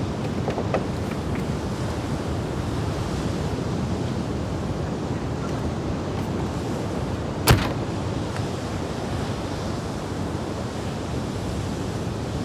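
Small surf waves washing on the beach in a steady rush, with wind on the microphone. A single sharp click sounds about seven and a half seconds in.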